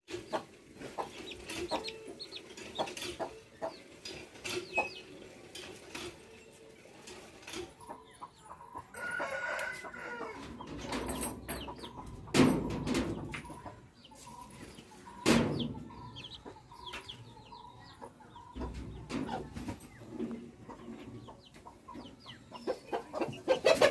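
Aseel chickens clucking and calling on and off, with a rooster crowing.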